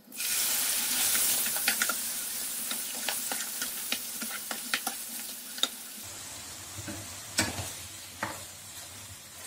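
Diced beef liver sizzling loudly as it hits hot butter and olive oil in a frying pan. The sizzle starts at once and gradually dies down as the liver starts giving off its juices. A wooden spoon clicks and scrapes against the pan as it is stirred.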